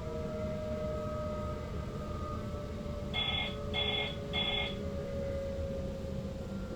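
Electric traction motors of a Sprinter Lighttrain multiple unit whining in steady tones that slowly fall in pitch, over the rumble of the train running on the track. About halfway through, three short electronic beeps sound in quick succession.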